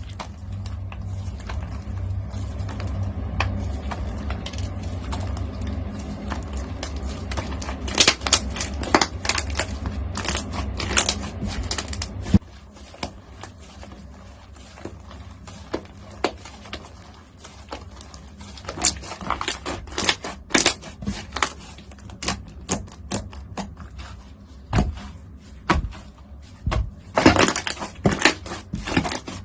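Crunchy slime being squeezed and pressed by hand, giving dense, irregular crackles and crisp pops that come in clusters.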